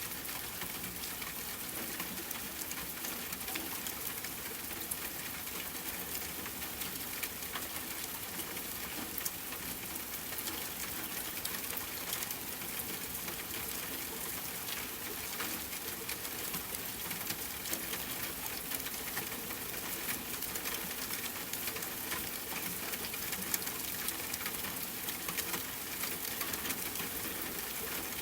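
Steady rainfall mixed with a crackling wood fire: an even hiss over many small, scattered pops and ticks.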